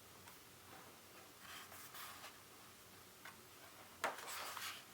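Book pages being handled: faint ticks and soft rustles, then a louder papery swish of a page being turned about four seconds in.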